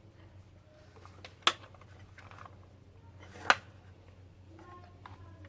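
Two sharp clicks about two seconds apart, made while the microwave's powered control board is being worked on, over a steady low electrical hum.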